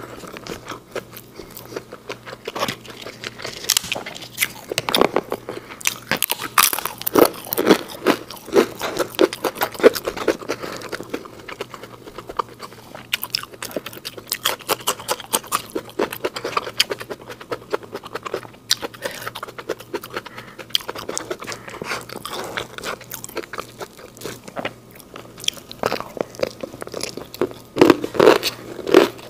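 Close-miked crunchy biting and chewing of food eaten by hand, including raw green beans; many small irregular crunches throughout, with a louder cluster near the end.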